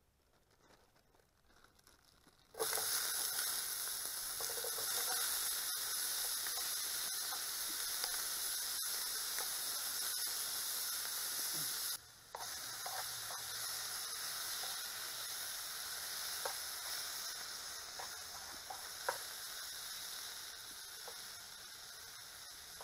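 Sliced jalapeño cheddar sausages, bell peppers, onions and jalapeños sizzling in a hot oiled frying pan. The sizzle starts suddenly a couple of seconds in as the food goes into the pan, with small scrapes of a spatula stirring it, and slowly dies down toward the end.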